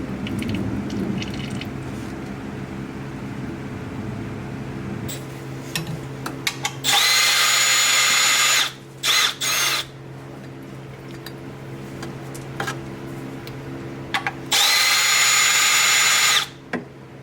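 A handheld power drill runs in two bursts of nearly two seconds each, about seven and fifteen seconds in, with a few short blips of the trigger between them. A steady low hum sits underneath throughout.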